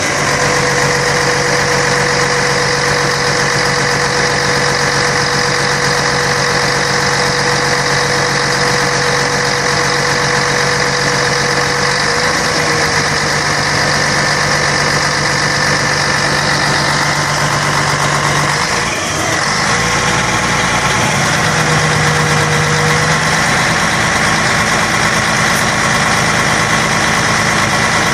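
Scania K113 bus's diesel engine running steadily at an even speed, with a brief dip about two-thirds of the way through.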